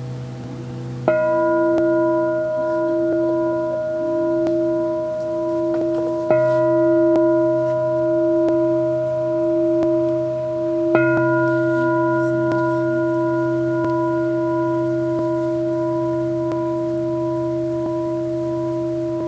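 Crystal singing bowls struck three times, about five seconds apart. Each strike rings on as a set of long, pure tones with a slow wobble in the lowest one.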